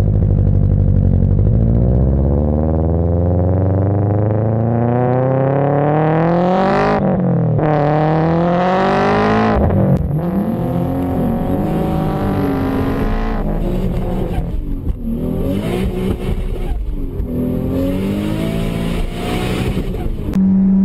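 Car engine sound effect accelerating, its pitch climbing for about seven seconds, dropping as if changing gear, and climbing again. After that it revs up and down unevenly, and a steady tone cuts in at the very end.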